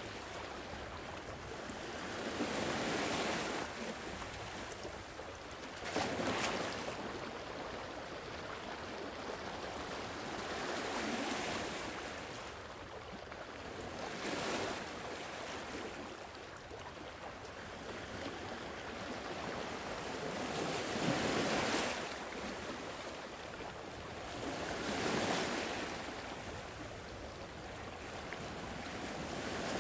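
Sea waves washing ashore, swelling and breaking every few seconds with a steady wash between, one sharper break about six seconds in.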